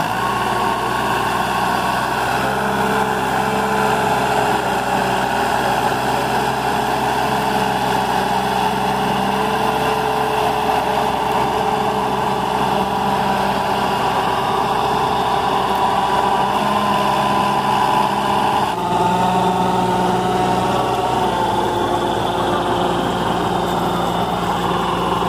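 Sonalika DI-20 mini tractor's diesel engine running steadily. Its note shifts abruptly about nineteen seconds in.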